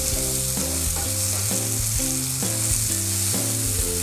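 Sliced tomato, shallots, garlic and chilies sizzling in hot oil in a frying pan, stirred with a wooden spatula: a steady frying hiss as the tomato is cooked down until it wilts.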